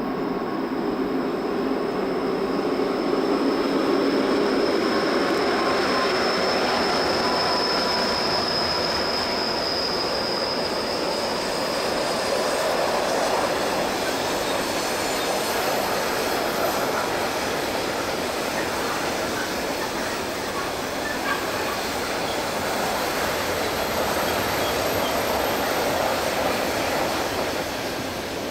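Train running steadily along the track, with a thin, high-pitched wheel squeal through the first third or so.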